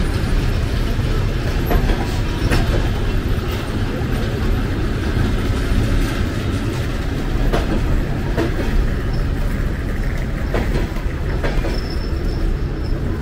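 Passenger train rolling along the track: a steady rumble of the cars with irregular clacks of the wheels over rail joints, and a faint high whine near the end.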